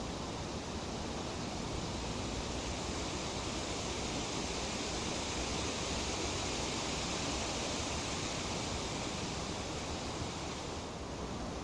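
Tree leaves rustling steadily in a breeze, an even hiss that swells slightly in the middle and eases a little near the end.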